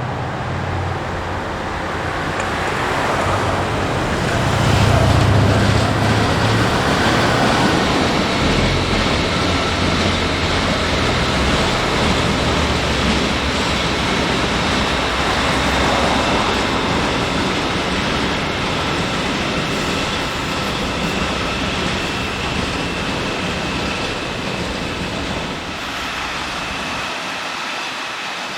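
A passing train's rolling noise, a steady rush that swells about four seconds in and slowly fades, with faint steady high tones over it.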